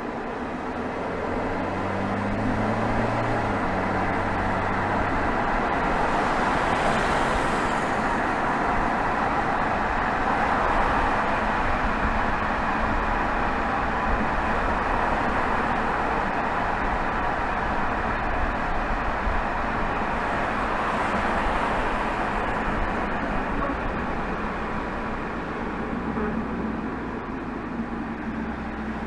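Exhaust of a 2020 BMW 320xd's 2.0-litre four-cylinder turbodiesel (B47) under way, picked up right at the tailpipe and mixed with tyre and road noise. It builds over the first couple of seconds, then holds steady, easing a little near the end.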